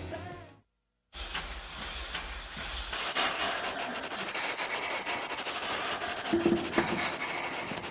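Music fades out and drops to a short moment of dead silence, as at an edit cut. Then a steady hiss of background noise runs on with no clear speech or music.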